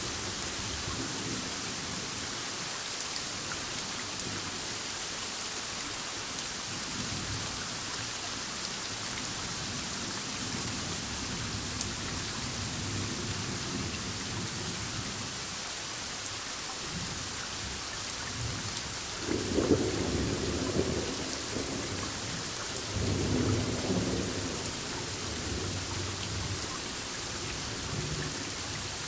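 Heavy rain falling steadily during a thunderstorm, with thunder rumbling underneath and two louder rolls of thunder, about two-thirds of the way through and again a few seconds later.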